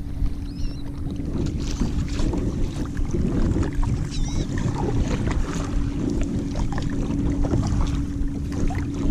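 Kayak moving fast across the bay: water rushing along the hull and wind on the microphone, under a steady low hum. Seabirds call briefly twice, about half a second and about four seconds in.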